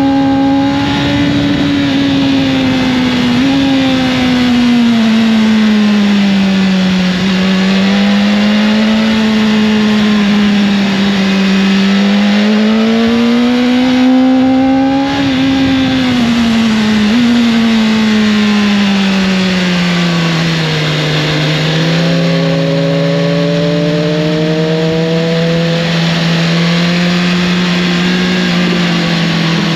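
Motorcycle engine running under way, its revs rising and falling smoothly every few seconds, with a couple of sudden jumps in pitch where gears change, over a steady rushing hiss.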